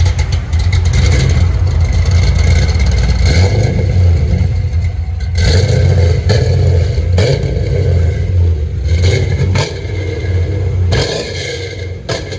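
2012 Chevy Camaro SS's LS-swapped V8, with long-tube headers and an MBRP cat-back exhaust, running loudly just after being started, revved a few times.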